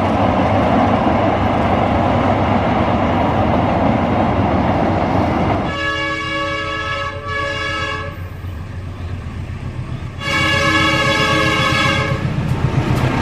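A passenger train rumbling steadily as it crosses a steel bridge. Then a KAI CC 201 diesel-electric locomotive sounds its multi-tone air horn twice as it approaches, a shorter blast and then a longer one about two seconds later.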